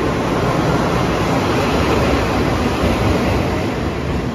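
Taiwan Railway E200 electric locomotive and its passenger coaches rolling past the platform, giving a steady rumble of wheels on the rails.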